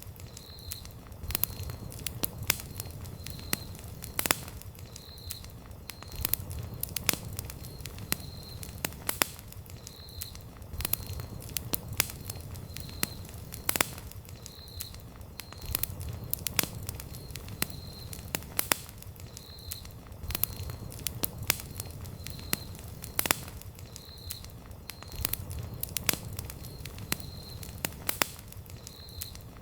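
Wood campfire burning with dense, irregular crackles and pops over a low rumble of flame that swells and fades. A short high tone recurs about once a second.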